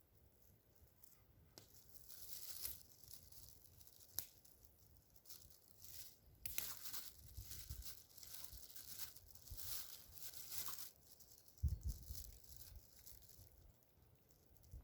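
Faint, irregular tearing and crinkling as sticky crescent roll dough is pulled apart and peeled up by hand. There is a short low thump near the end.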